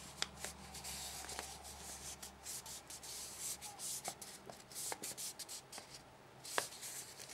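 Origami paper being folded and creased by hand: soft rubbing and rustling with scattered light crackles, and one sharper click about six and a half seconds in.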